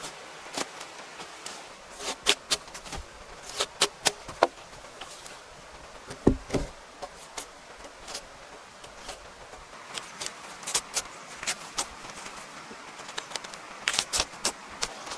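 Irregular sharp knocks and clicks of hands-on building work, with one heavier thud about six seconds in, over a steady outdoor hiss.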